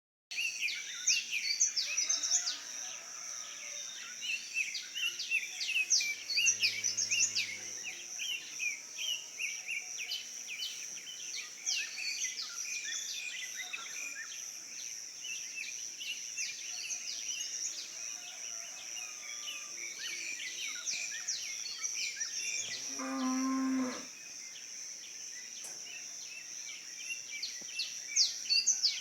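Morning chorus of many birds chirping over a steady high insect drone, while a cow moos twice: a deep call about six seconds in and a higher, shorter one near the end.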